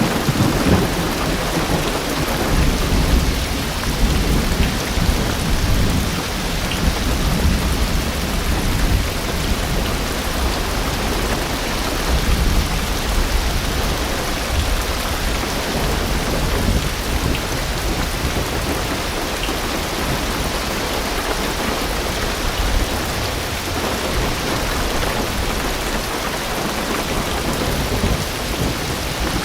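Heavy rain drumming steadily on a car roof and windows, with low rumbles of thunder swelling and fading, strongest in the first several seconds and again midway.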